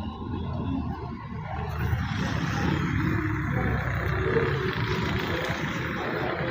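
Steady rumble of machinery or an engine running, growing louder about two seconds in and then holding steady.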